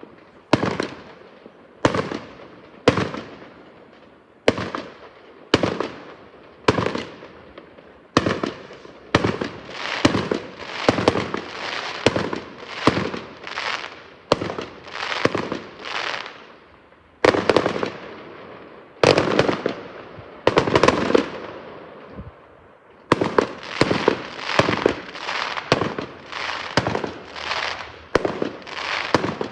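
Fireworks exploding in a long run of sharp bangs, each trailing off in a crackling, echoing tail. They come about once a second at first, then faster and denser, with a short lull about three-quarters through.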